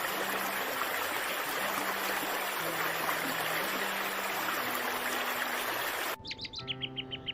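Rushing water, a steady full rush that cuts off abruptly about six seconds in. A bird's quick run of repeated high chirps and further calls follows.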